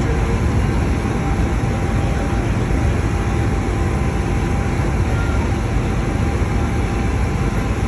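A steady low rumble, like a running vehicle or engine, with a faint thin steady tone above it.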